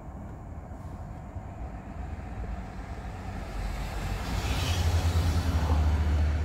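EMU500 electric multiple-unit local train passing, its noise swelling from about three seconds in to a peak near the end, with a low rumble underneath.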